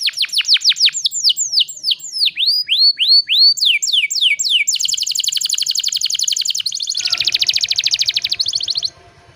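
Domestic canary singing: fast runs of repeated high down-sweeping notes, several a second. About halfway through it switches to rapid even trills, then a lower trill, and it breaks off abruptly near the end.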